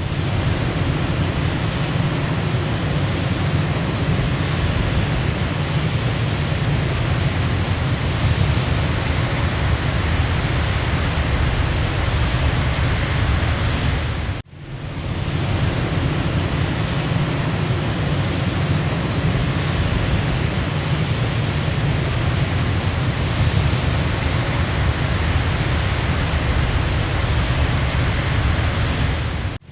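Waterfall rushing steadily, a dense even roar of falling water. About halfway through it cuts out abruptly for an instant and swells back in, where the recording loops.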